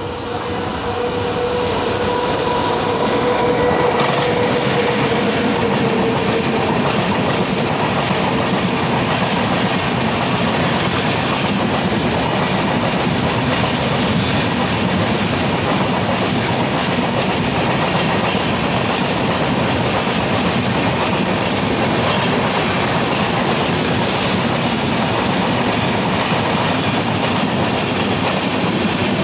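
An express train's coaches running past at speed through a station without stopping: a loud, continuous rumble of wheels on rails. A steady tone sounds with it over the first few seconds and fades away.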